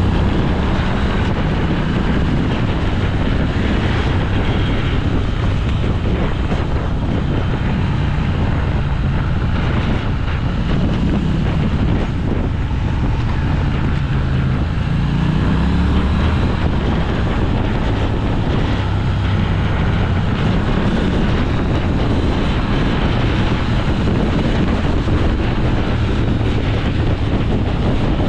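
Motorcycle engine running on the move, its pitch rising and falling with the throttle, under heavy wind noise on the microphone.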